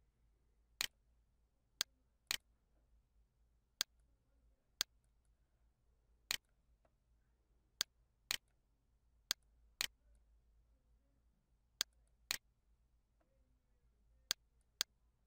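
Computer mouse clicks: about fourteen sharp single clicks at irregular intervals, several coming in pairs about half a second apart, over a faint low hum.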